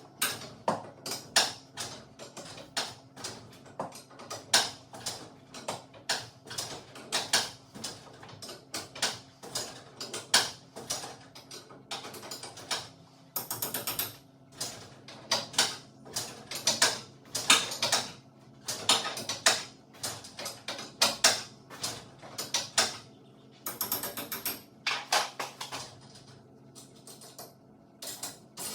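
Metal clicking and clanking of hand tools and hardware during garage door torsion spring work: a quick, irregular run of clicks and knocks throughout.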